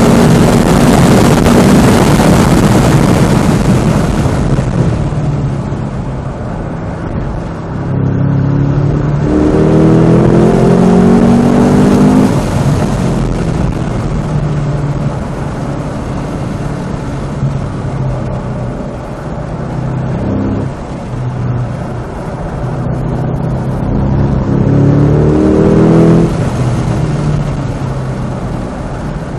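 Supercharged 6.2-litre V8 of a Cadillac CT5-V Blackwing driven hard on track: loud at full throttle at first, easing off about four seconds in, then climbing in revs twice, around ten seconds in and again around twenty-five seconds in, each pull ending in a sharp lift off the throttle.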